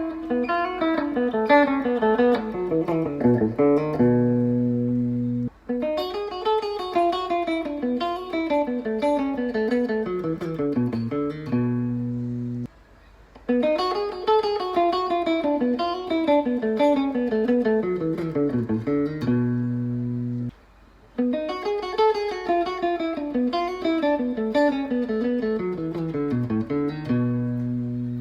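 Ibanez GRG320FA electric guitar with Infinity R humbucking pickups played unaccompanied: runs of picked single notes falling in pitch, each ending on a held low chord, the same phrase played four times over with short breaks between.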